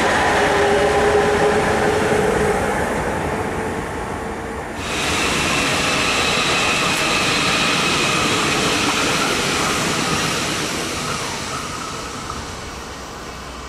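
Two electric locomotives hauling a freight train past, a steady whine over the rumble of the wagons. After an abrupt cut about five seconds in, an ICE 4 high-speed train rushes past, its noise fading as it draws away.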